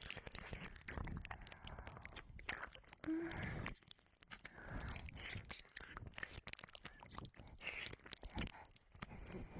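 Ear licking and mouth sounds right at a 3Dio binaural microphone's ear: wet tongue licks, smacks and many small clicks in an irregular stream, dropping off briefly a few seconds in.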